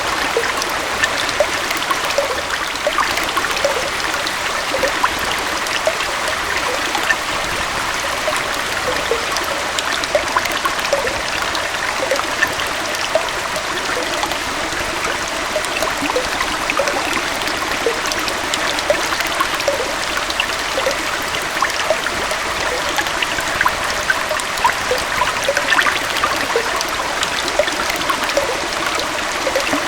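Small waterfall and forest stream running steadily: an even rush of water with many small splashes and bubbling trickles.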